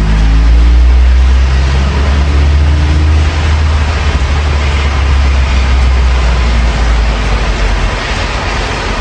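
Low rumble of a heavy vehicle passing in the street, its engine note shifting in pitch for the first few seconds, then easing off toward the end, over the steady hiss of rain.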